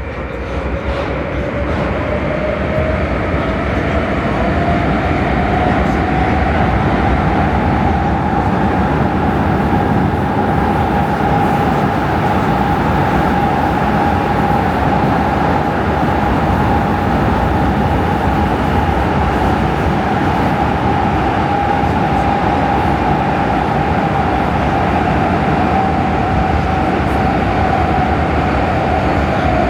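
Prague metro Line A train running through the tunnel, heard from inside the car. Its motor whine rises in pitch over the first few seconds as it accelerates, then holds steady over a continuous rumble of wheels on rail.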